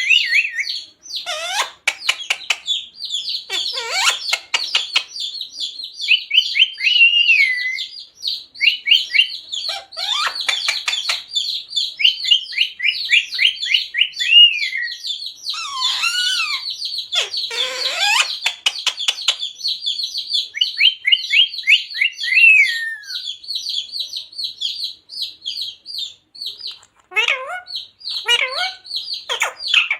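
Green parrot chattering: a fast, unbroken stream of high chirps and short gliding calls, with a few louder, harsher calls around the middle and again near the end.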